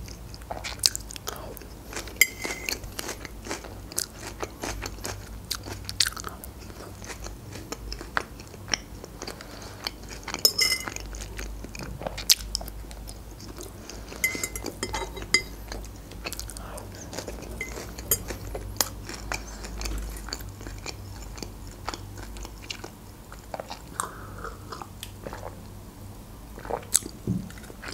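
Close-miked chewing and crunching of Caesar salad, with many irregular wet mouth clicks. Near the end, a swallowed sip of a drink.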